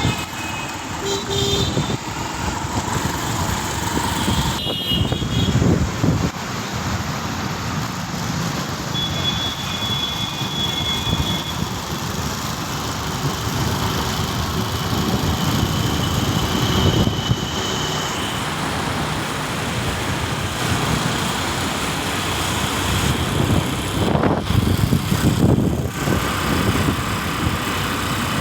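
Road traffic: cars and other vehicles driving past, the noise swelling and fading as they pass, with a short horn toot about a second in.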